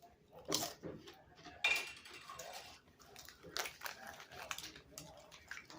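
Someone eating, chewing and crunching potato chips, with irregular short crackles and clicks.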